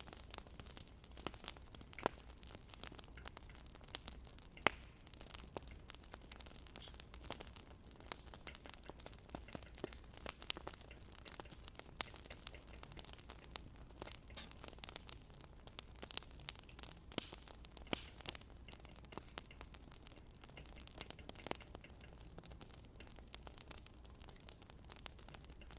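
Wood fire crackling: irregular sharp pops and snaps over a soft steady hiss, with a faint low hum underneath.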